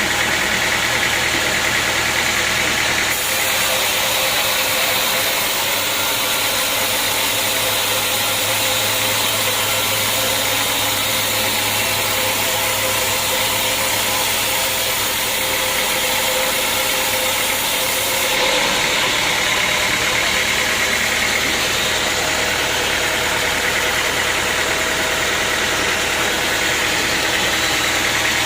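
Sawmill machinery running steadily: a constant mechanical noise with an engine-like hum. The high hiss in it grows stronger about three seconds in and eases back after about eighteen seconds.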